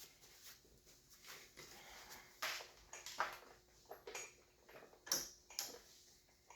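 Scattered light clicks, taps and small scrapes of hand tools and metal parts being handled at a two-stroke engine's top end, as an old, crusty gasket is being worked off.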